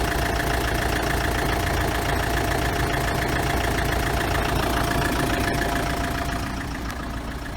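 Car engine idling steadily, the level easing down slightly near the end.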